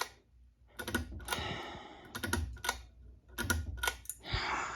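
A run of irregular light clicks, about a dozen, with soft rustling between them.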